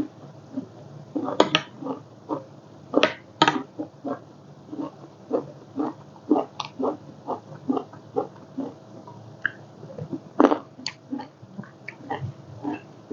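Close-up eating sounds: a person chewing and smacking mouthfuls of spicy seafood salad, a run of short irregular wet smacks with a few louder ones.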